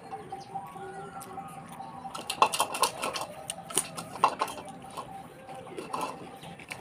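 Close-up eating sounds: chewing with a cluster of sharp crunchy clicks and smacks about two to four and a half seconds in, and a few more near the end.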